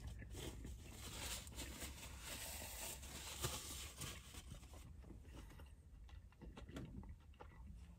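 Faint chewing of a mouthful of cheeseburger, with small wet clicks, busier in the first half and then quieter, over a low steady hum.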